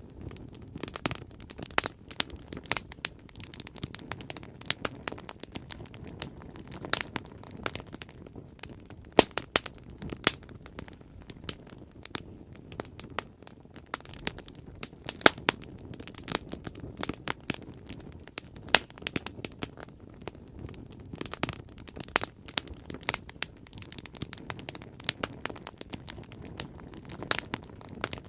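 Bonfire crackling: frequent sharp, irregular pops and snaps of burning wood over a steady low rush of flames.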